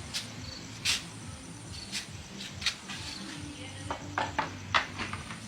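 Scattered sharp clicks and knocks, like parts and tools being handled during an appliance repair, over a steady low hum.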